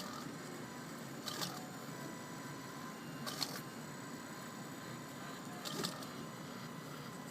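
Fused-filament 3D printer running while it prints: a steady motor whine over fan hiss, broken by three short buzzy bursts about two seconds apart.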